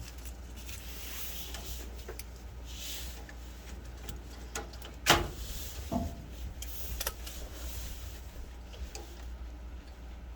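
Wire spade connectors being worked on and off a gas furnace's control board: scattered light clicks and handling noise, with one sharp click about five seconds in and smaller ones just after, over a low steady hum.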